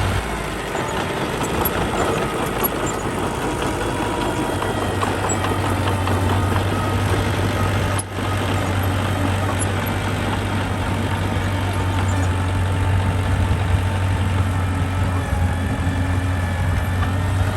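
Diesel engine of earthmoving machinery running steadily with a constant low hum.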